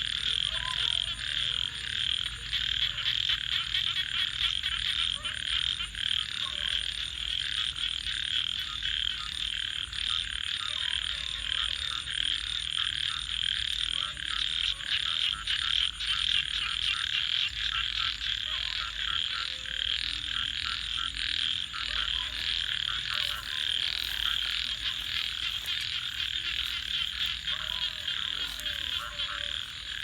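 A dense frog chorus calling continuously, with the thin clicks of a crackling wood fire mixed in.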